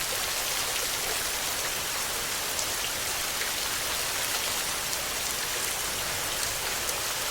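Steady rain falling: an even hiss with scattered ticks of individual drops striking a surface.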